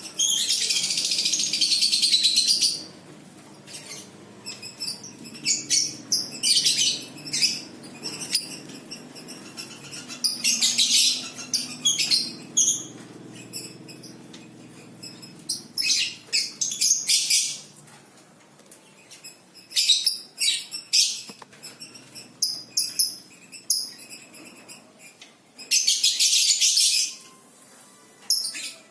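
A songbird singing in repeated high-pitched phrases: runs of quick chirps and longer, dense trills lasting two to three seconds, with short pauses between them.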